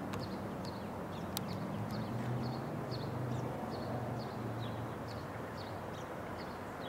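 Low, steady rumble of a departing Metra commuter train moving away down the track, with a small bird chirping over it, about two or three short high chirps a second.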